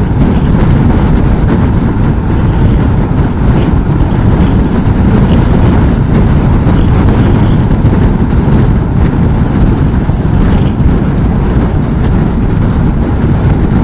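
Steady wind rush and buffeting on the microphone of a Honda NC750S parallel-twin motorcycle riding at speed in a strong crosswind, with engine and road noise underneath.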